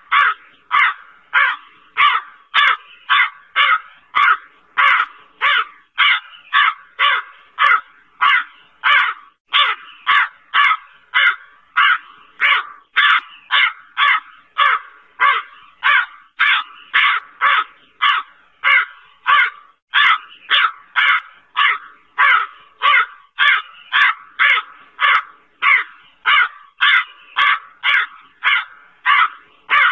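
Black crow cawing over and over, about two harsh caws a second without a pause.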